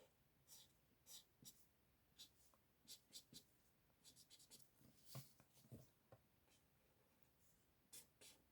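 Faint scratching of a marker's bullet tip stroking on card, in short irregular strokes as colour is filled in.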